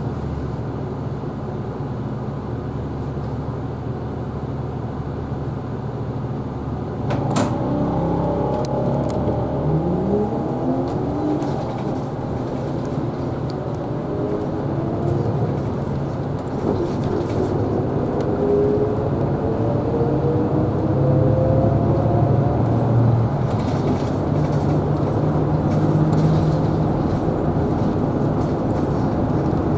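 Isuzu Erga Hybrid city bus running, heard from the front of the cabin: a steady low engine hum with a drivetrain whine that rises in pitch twice as the bus picks up speed, and a sharp click about seven seconds in.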